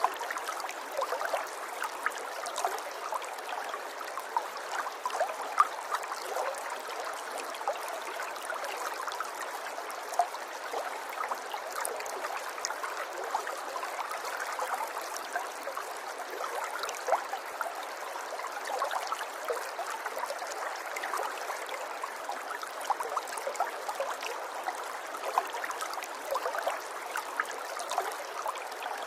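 River water running over stones in a shallow stream, a steady trickling and gurgling with many small splashes.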